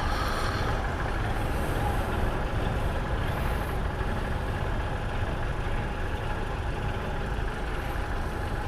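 Motorcycle riding along: steady engine drone mixed with wind and road rush on the rider's microphone.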